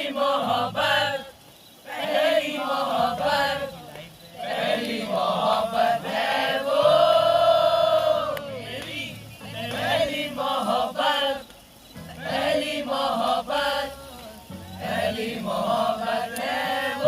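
A song: singing voices in phrases with long held notes, broken by short pauses.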